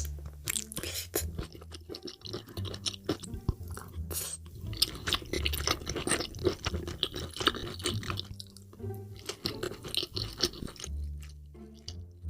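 Close-miked mukbang eating: wet chewing and crunching of food in many quick, irregular smacks and crackles, over background music with low bass notes.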